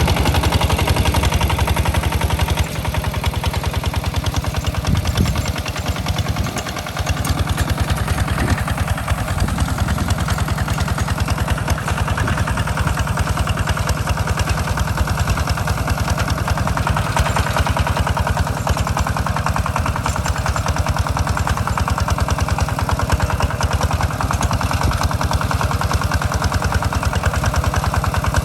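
Compact tractor's engine running steadily while plowing a rice field, with a fast, even chugging from the exhaust.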